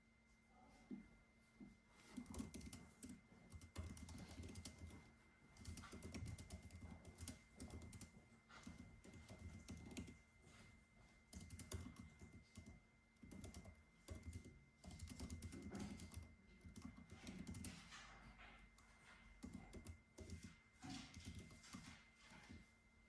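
Typing on a computer keyboard: bursts of quick key clicks lasting a second or two, with short pauses between, quiet, over a faint steady high tone and low hum.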